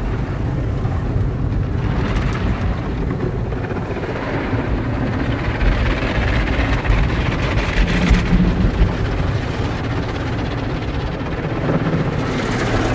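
Automatic car wash working over the car, heard from inside the cabin: a loud, steady rush of water spray and machinery rumble on the car's body, swelling a little around the middle.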